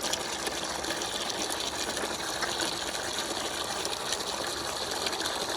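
Water pouring steadily into a pig's pool as it fills.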